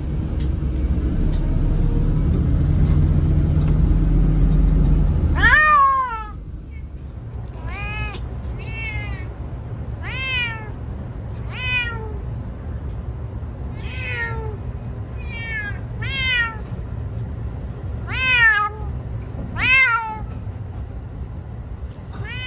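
A low vehicle rumble that cuts off abruptly about five seconds in, then a cat meowing over and over, about ten loud meows each rising and falling in pitch, one to two seconds apart: a cat complaining while being taken to the vet.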